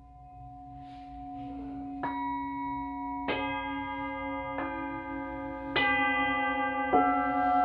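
Singing bowls struck one after another, five strikes about a second apart. Each bowl keeps ringing, so their tones layer into a growing wash of overlapping, gently wavering hums.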